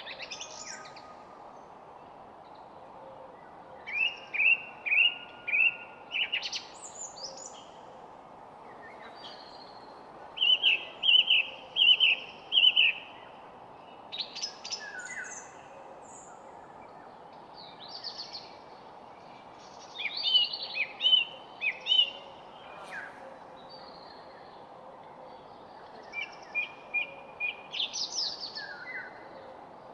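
Songbirds singing in short phrases of a few quick repeated notes, one phrase every several seconds, over a steady background hiss.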